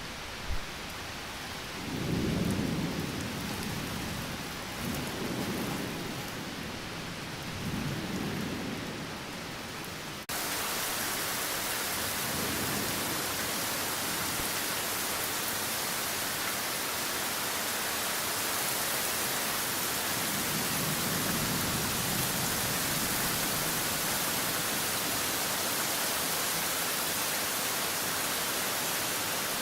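Thunderstorm: rolling thunder rumbles several times over steady rain. About ten seconds in the sound cuts abruptly to a louder, brighter hiss of heavy rain, with one more rumble of thunder later on.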